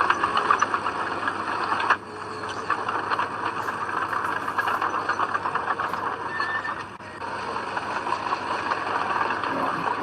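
Heavy earthmoving machinery working: an engine running under load with dense, continuous rattling and clanking, dipping briefly about two seconds in and again near seven seconds.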